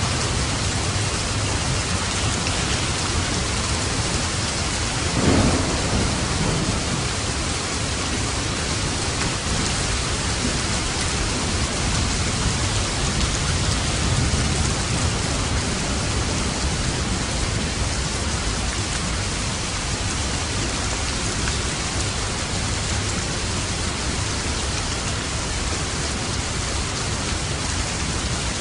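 Steady rain falling on a roof, with a rumble of thunder about five seconds in and a fainter roll of thunder around the middle.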